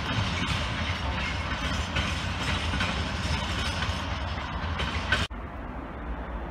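Train running on the rails: steady noise with scattered sharp clicks. It cuts off suddenly about five seconds in, leaving a quieter outdoor background.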